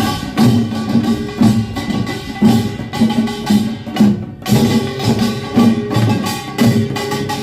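Korean pungmul farmers' band playing: gongs and drums beating a driving rhythm of about two strikes a second over ringing metal tones, with a brief break about four seconds in.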